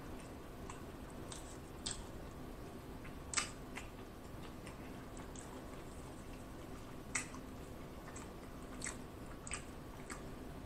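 Close-miked chewing of a cheeseburger: soft, wet mouth smacks and lip clicks every second or so, a few sharper than the rest, over a faint steady hum.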